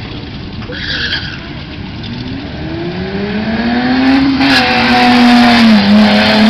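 Ford Mustang launching from the drag-strip start line and accelerating hard. The engine's pitch rises steadily, dips briefly at a gear change about four and a half seconds in, and it grows loud as the car passes close by near the end.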